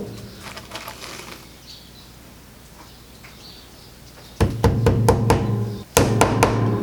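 Hammer tapping small nails into a wooden beehive frame: a knock at the start, then after a quiet spell two quick runs of rapid light blows, about six a second, in the second half.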